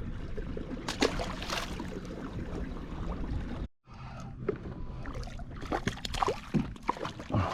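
Water sloshing and lapping around a fishing kayak, with scattered small knocks and clicks. The sound cuts out completely for a moment just before halfway.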